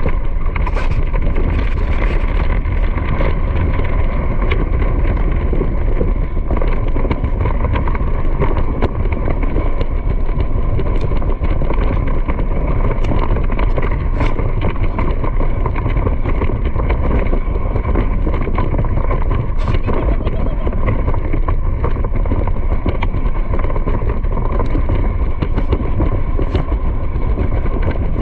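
Steady running noise of a vehicle in motion, a continuous low rumble without change.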